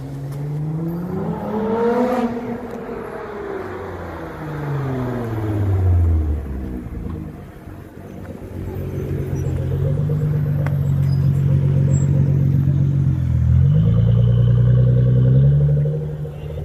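A car engine climbs in pitch and then falls away as it drives past. Then a Nissan GT-R's twin-turbo V6 runs steadily at low revs close by, with a quick drop and rise in revs near the end.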